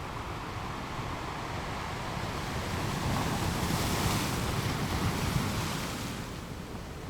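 Sea waves breaking on the shore: the surf swells to a hiss about halfway through and then eases off, with wind on the microphone.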